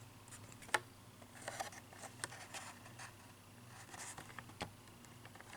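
Faint handling noise of carded Hot Wheels die-cast cars: scattered sharp clicks and short rustles of the plastic blister and cardboard card being turned over and moved, over a low steady hum.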